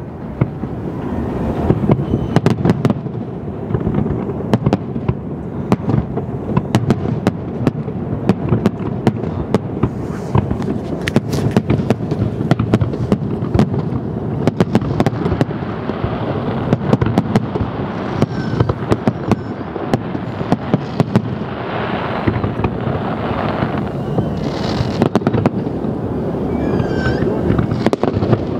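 Fireworks display: aerial shells bursting in rapid, irregular bangs and crackles over a continuous low rumble.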